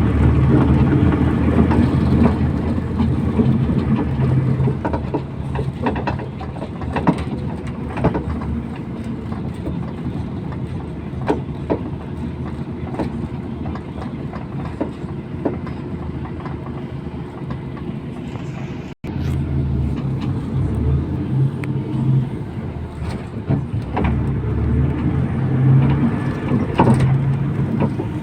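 MAZ 241 city bus in motion, heard from inside the cabin: the engine running with rattles and knocks from the body over the road. The engine sound eases off for a stretch in the middle, breaks off for an instant, and comes back strongly.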